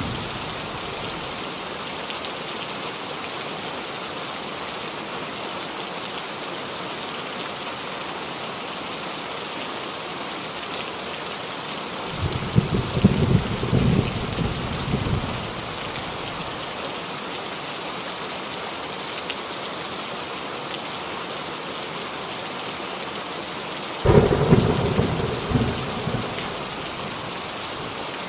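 Steady rain falling on a roof, an even hiss. Thunder rumbles twice, about twelve seconds in and again near the end, each lasting two to three seconds.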